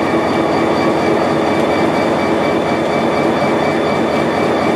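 Dakota, Minnesota and Eastern freight train rolling: a loud, steady noise of wheels on rail with steady high-pitched ringing tones over it.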